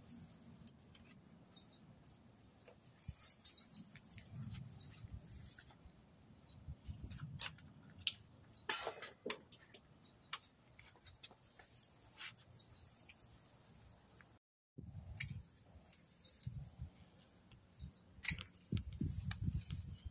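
A small bird repeating a short, high, falling chirp about once a second, over scattered sharp clicks and low rustling handling noise.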